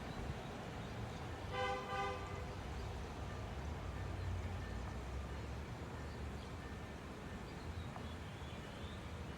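Two short toots of a multi-note horn, one right after the other, over a steady low rumble.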